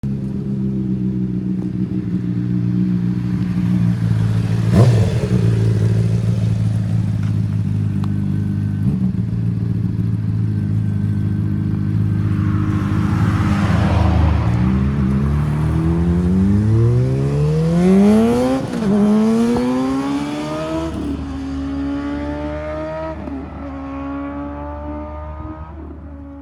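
2008 Honda CBR600RR inline-four running through a Two Brothers carbon slip-on and Arrow headers, holding a steady note with a brief sharp noise about five seconds in. About halfway through it accelerates hard, the pitch climbing and dropping at each upshift, several times, then fades as the bike pulls away.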